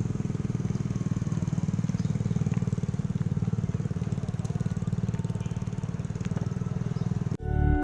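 An engine running steadily with a fast, even low pulsing, cut off suddenly near the end as music starts.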